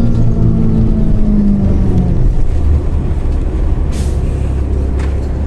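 City bus engine running, its pitched hum dropping away about two seconds in, with a short hiss about four seconds in.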